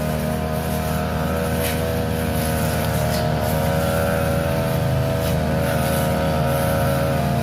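Petrol grass-cutting machine engine running steadily at high speed while cutting grass, with a few brief sharp noises over it.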